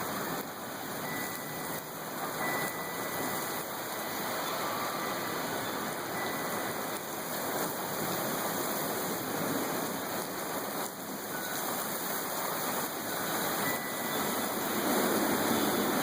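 Heavy rain pouring steadily in a storm, a dense even hiss that grows a little louder near the end.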